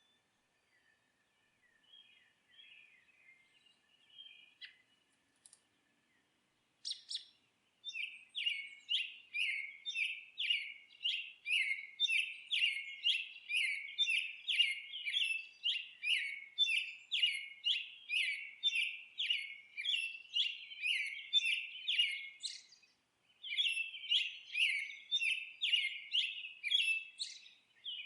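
Songbird chirping: faint, scattered twittering at first, then, about eight seconds in, a loud, fast run of short, even chirps at about two a second that goes on, with one brief break near the end.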